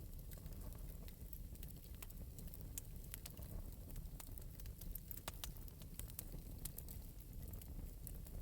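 Wood fire crackling steadily in an open metal fireplace: irregular sharp pops and ticks over a low, soft rumble of the flames.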